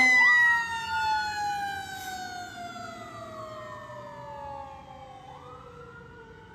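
Fire truck sirens receding after passing: one siren tone slowly winds down in pitch throughout while a wailing siren rises and falls twice, the whole sound fading.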